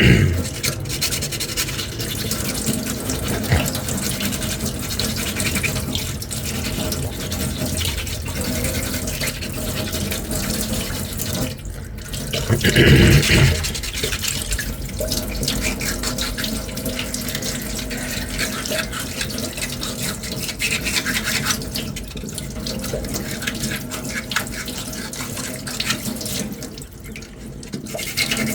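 Rough-grit sandpaper rubbing back and forth over a small filler-primed cosplay finger-armour ring, a continuous scratchy scrubbing. A brief louder bump comes about halfway through.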